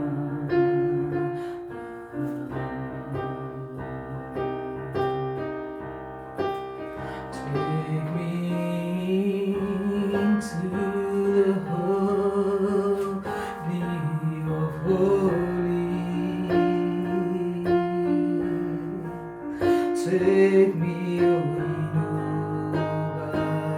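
Slow worship music played on a keyboard, with held piano chords shifting every second or so and a wavering melody line over them.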